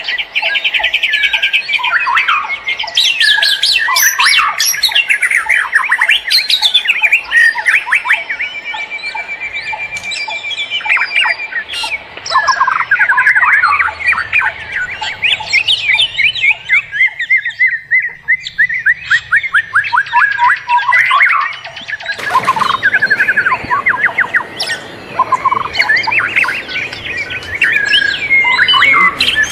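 Several wild forest birds singing and calling at once: a dense chorus of quick chirps, rapid trills and short whistles, with many songs overlapping.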